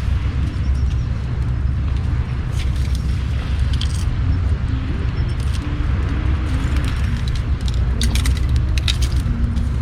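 Bonfire crackling, with sharp pops in clusters about three seconds in and again around eight to nine seconds in, over a steady low rumble.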